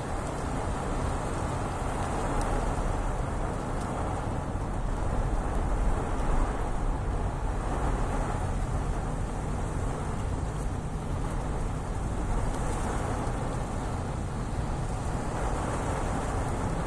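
Fairly heavy rain, a steady hiss over a low rumble.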